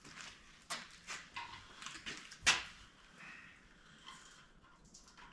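Hand tools knocking and clinking on the truck's metal parts, a few separate knocks with the sharpest about halfway through, and a few short high squeaks in between.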